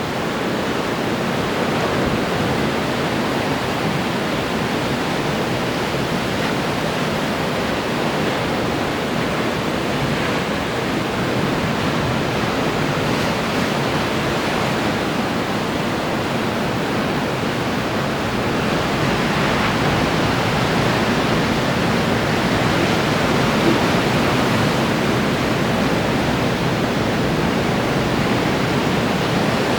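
Ocean surf breaking and washing on the shore in a continuous rushing hiss, swelling a little louder about two-thirds of the way through.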